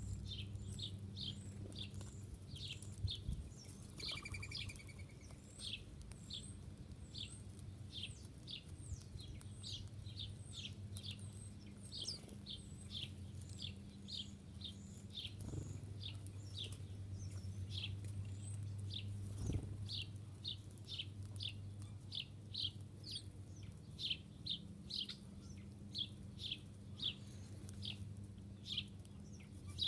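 Birds chirping: short, high, quick chirps, two or three a second, going on without a break, over a steady low hum.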